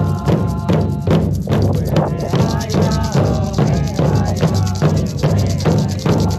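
Drum circle: several hand drums beating together in a steady rhythm, about three strokes a second.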